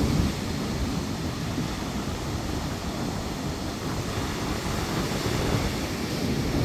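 Storm wind and surf on a seashore: a steady rush of wind and breaking waves, with gusts buffeting the microphone in low rumbles, strongest at the start and again near the end.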